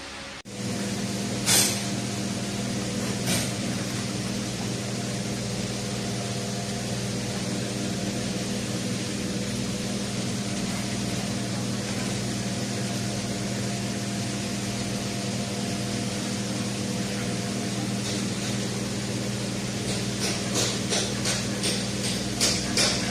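A steady mechanical hum with a few fixed tones, broken by two sharp clicks in the first few seconds and by a quick run of repeated clicks near the end.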